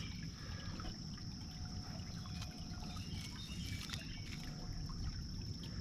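Creek ambience: water trickling, with a steady high-pitched insect drone running over it.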